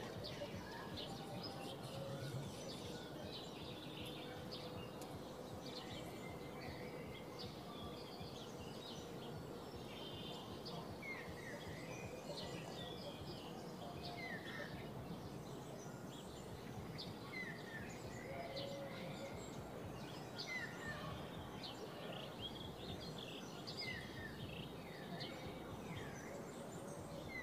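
Small birds chirping in short repeated calls over a faint, steady outdoor background hiss, the calls coming more often in the second half.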